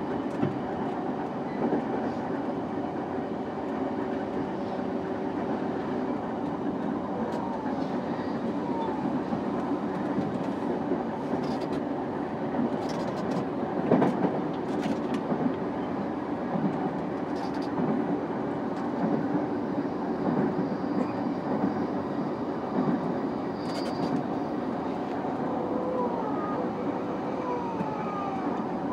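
JR East E233 series 5000 electric commuter train running at speed, heard from inside the passenger car: a steady rumble of wheels on rail with scattered sharp knocks from the wheels over rail joints, the loudest about halfway through.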